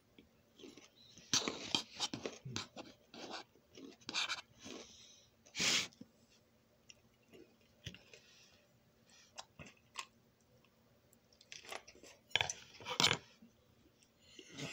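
A person chewing food close to the microphone, in irregular spells of loud chewing noise separated by short quiet gaps.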